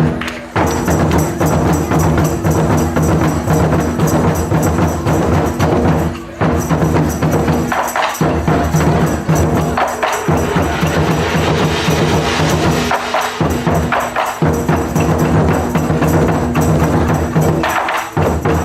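Loud percussion music with sharp, wood-block-like clicks and strikes over sustained pitched tones, which break off briefly a few times.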